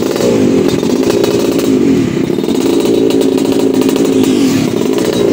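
Yamaha RX-King's two-stroke single-cylinder engine running fast and being revved, the pitch sagging and climbing again several times.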